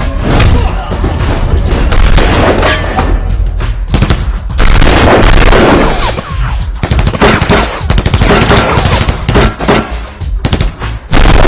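Rapid bursts of gunfire, machine-gun style, with heavy booms, in a film soundtrack mixed with music. The shots come in dense runs, thickest in the second half.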